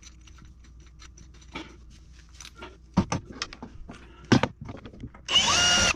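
Small clicks and handling knocks of hardware being worked, with two sharp knocks partway through, then a cordless drill runs in a short burst of about half a second near the end, its pitch dropping as it bites.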